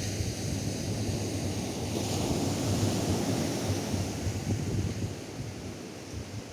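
Atlantic surf breaking and washing up a sand beach, a wave swelling about two seconds in and fading out toward the end, with wind buffeting the microphone in a low rumble.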